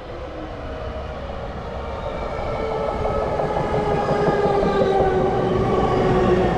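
Electric commuter train drawing into the station, its traction motors whining in several tones that slowly fall in pitch as it slows, getting louder over a low rumble of the wheels on the rails.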